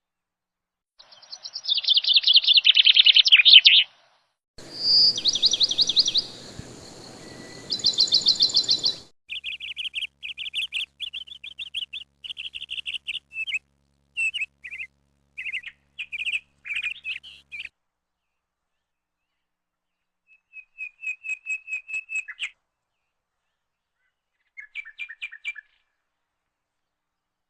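Small birds chirping in rapid trills of short, high notes, coming in separate spells that start and stop abruptly with silent gaps between them, the loudest spell in the first few seconds.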